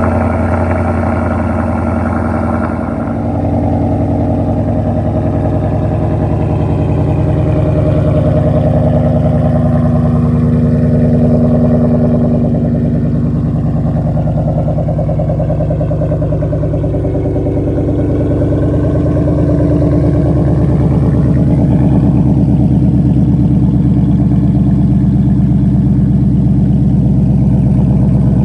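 2018 Ford Mustang GT's 5.0 L Coyote V8 running on a true cold start through an MBRP muffler delete with an X-pipe, stock cats and stock manifolds. It runs steadily with a slow, slight drift up and down in pitch and a short dip in level about three seconds in.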